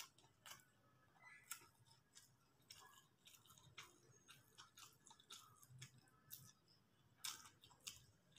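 Faint, irregular wet clicks and smacks of a person chewing a mouthful of soft chow mein noodles with the mouth closed.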